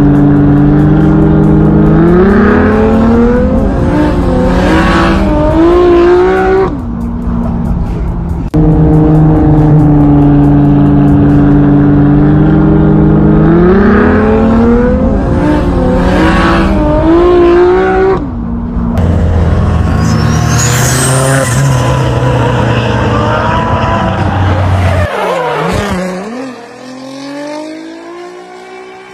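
Car engines revving hard and accelerating, the pitch climbing and falling back several times as they go through the revs.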